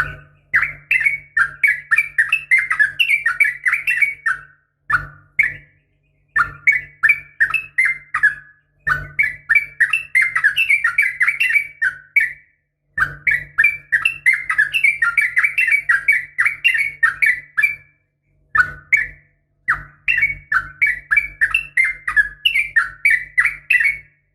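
Yellow-vented bulbul (trucukan) singing in fast, bubbly chattering phrases a few seconds long, separated by short pauses, each over a low hum from the recording. It is billed as a female's call to males, used as a lure to set caged males singing.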